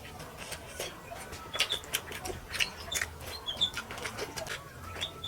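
Close-up eating sounds: many quick wet clicks and smacks of chewing and handling rice and fish curry. A few short, high bird chirps come in over them in the second half.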